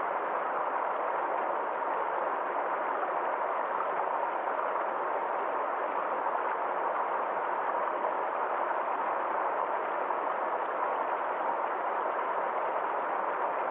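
A small forest stream flowing, a steady even rush of water.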